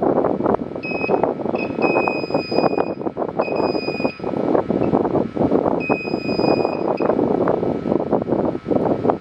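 A high electronic beep tone sounding on and off in several stretches, some short and some over a second long, over a loud, steady rushing noise full of crackles.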